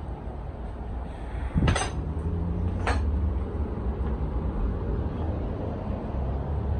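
Two sharp metallic clanks about a second apart, the first a little under two seconds in, over a steady low background rumble.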